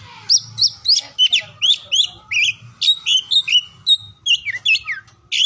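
Oriental magpie-robin (kacer) singing: a fast, varied run of short sliding whistles and chirps, about three to four notes a second.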